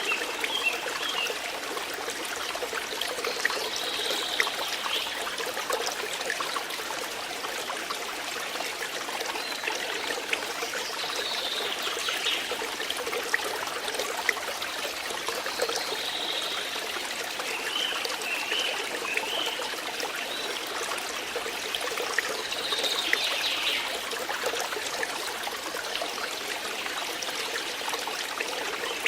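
Water flowing and trickling steadily, like a small stream. Short high chirps come every few seconds.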